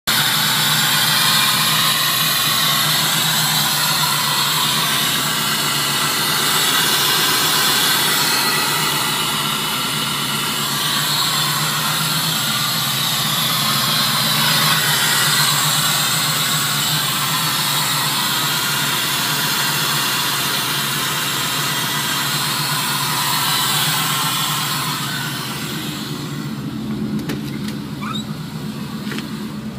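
The 1956 Chevy 210's V8 engine running steadily at idle, a constant hum with no revving, heard close with the hood open. Near the end it is heard from inside the car's cabin and is a little quieter.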